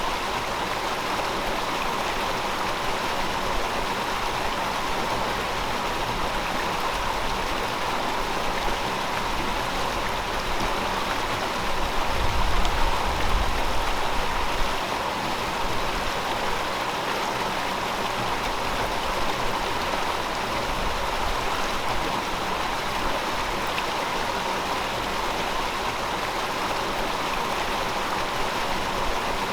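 River water flowing steadily over rocks, an even rushing noise. A low rumble swells briefly about twelve seconds in.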